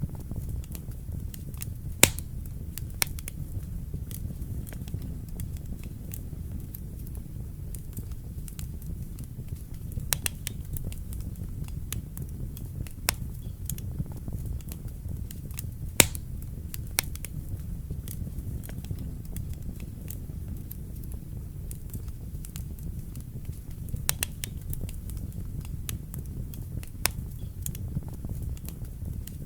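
Wood fire burning in a fireplace: a steady low rumble of flames with scattered sharp crackles and pops, a few louder snaps standing out.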